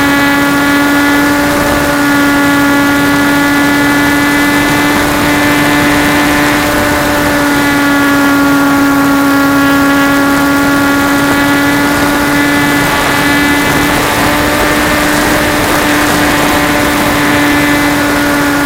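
Radio-controlled Trojan T-28 model plane's motor and propeller running at a steady, even pitch, heard from a camera riding on the plane, with wind rushing over the microphone that swells a little twice.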